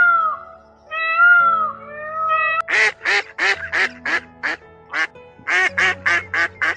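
Peacock giving loud wailing calls that rise and fall, two of them in the first second and a half. From about two and a half seconds in, a duck quacks in a fast, harsh run of about three calls a second, pausing briefly in the middle. Soft background music runs underneath.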